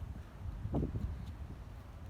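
Wind buffeting the microphone: an uneven low rumble with a short louder burst about three-quarters of a second in.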